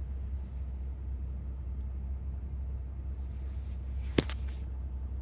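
Steady low rumble of a truck engine idling, with a single sharp click about four seconds in.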